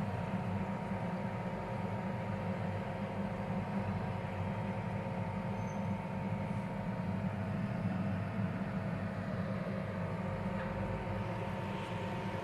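Microwave oven running: a steady electrical hum with a fan whirr and faint steady whine.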